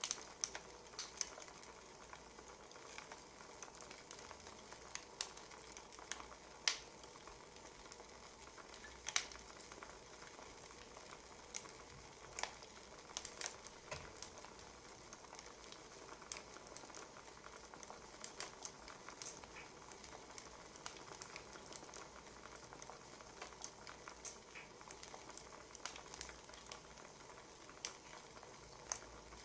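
Wood fire crackling: irregular sharp pops and snaps, a few louder than the rest, over a soft steady hiss.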